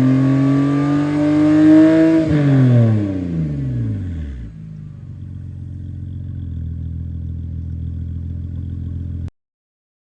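BMW E60 528i straight-six engine breathing through an aftermarket valved exhaust: revs held and climbing slowly, then released about two seconds in and falling back to a steady idle. The idle cuts off suddenly near the end.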